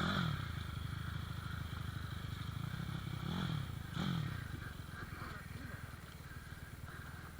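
Pit bike engine ticking over after a rev drops away, with two short throttle blips about three and four seconds in, then running on more quietly.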